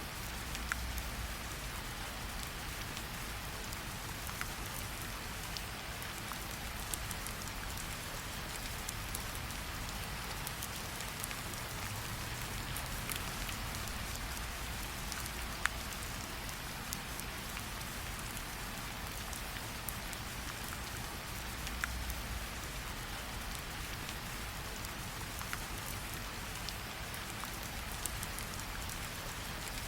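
Steady rain falling, with a campfire's scattered sharp crackles and pops.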